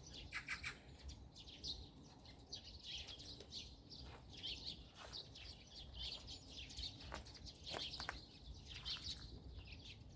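Several small birds chirping and twittering in quick, overlapping high calls, with a faint low background hum.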